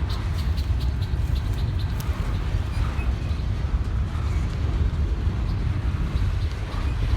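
Long CSX freight train rolling slowly past: a steady low rumble from the cars, with faint clicks in the first couple of seconds.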